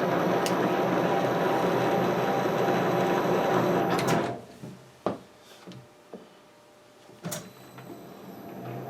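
Metal lathe running through a thread-cutting pass, then braked to a quick stop about four seconds in. A few sharp clicks follow while it stands, and the machine starts running again near the end.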